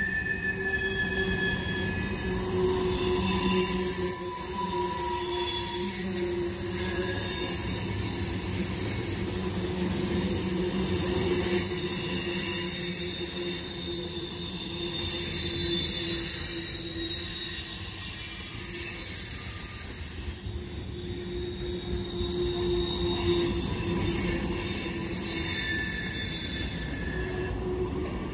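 Freight cars of a long CSX train rolling past, wheel flanges squealing against the rail in several high, shifting tones over the steady rumble of the wheels.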